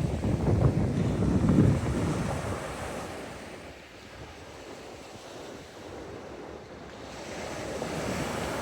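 Sea waves washing onto the beach, with wind buffeting the microphone. It is loudest in the first couple of seconds, then eases off.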